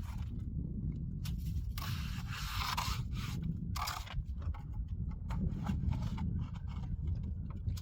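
Repeated scraping strokes of uneven length, one long stroke about two seconds in, then shorter strokes and ticks, over a steady low rumble.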